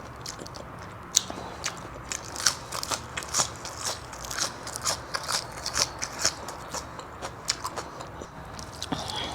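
A person chewing crunchy food, a quick, irregular run of crisp crunches.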